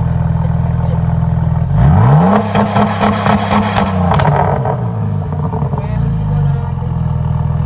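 Saab 2.8 turbo V6 exhaust with the muffler deleted, idling, then revved once about two seconds in: the pitch sweeps up sharply, holds briefly with a raspy crackle, and falls back to a steady idle.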